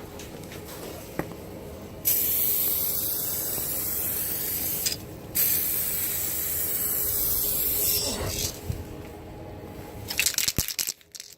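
Aerosol can of SprayMax 2K clear coat spraying in two long passes, each about three seconds, with a short break between. A coat of clear is being laid onto a headlight lens.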